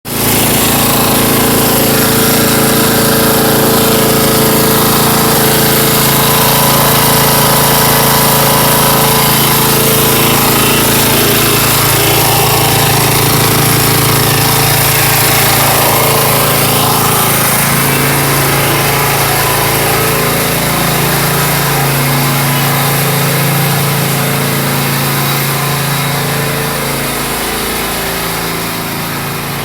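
Honda EGK 1600 kerosene-fuelled portable generator engine running steadily. The engine note shifts slightly in pitch past the middle and towards the end.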